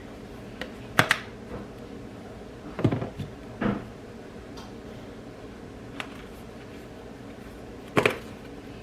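Several short, sharp knocks and clatters, about five spread over several seconds, over a steady low hum.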